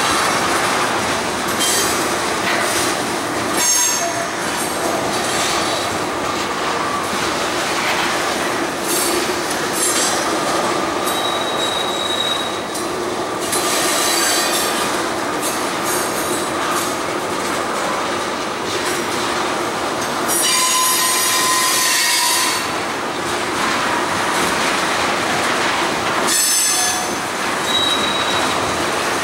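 Freight train cars rolling past, with steady wheel-on-rail rumble, clicks over rail joints and squealing wheels that come and go, loudest for a couple of seconds about two-thirds of the way through.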